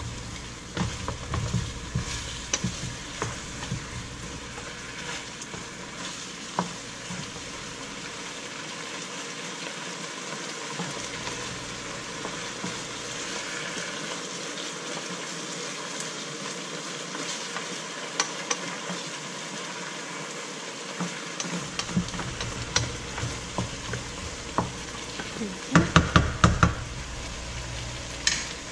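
Chicken pieces sizzling in soy sauce in a nonstick frying pan, a steady hiss, with a wooden spatula scraping and clicking against the pan as they are stirred. A few louder knocks come near the end.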